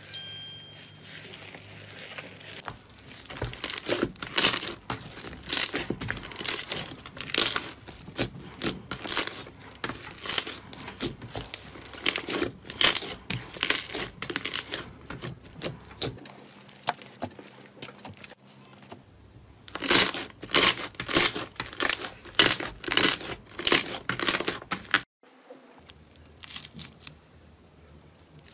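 Slime being squeezed, stretched and poked by hand, giving runs of sharp crackling pops and sticky tearing sounds. The runs come in bursts and are densest in the middle and again near the end.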